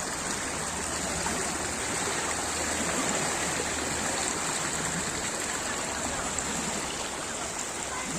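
Floodwater running in a steady, even wash.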